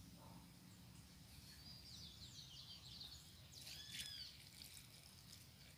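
Near silence outdoors with a faint low background hum, broken by faint high bird chirps: a short run about two seconds in and a couple of arching calls a little later.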